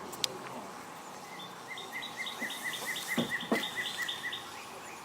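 A bird calling a quick run of about a dozen short chirps, roughly four a second for some three seconds. A sharp click comes just after the start and two knocks sound in the middle.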